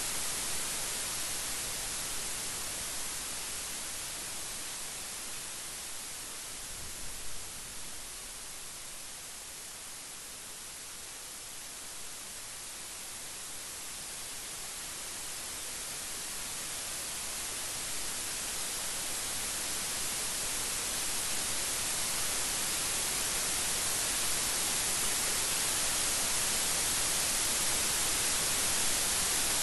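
Steady rain falling, an even hiss that eases a little in the first third and then builds louder toward the end, with a brief low thud about seven seconds in.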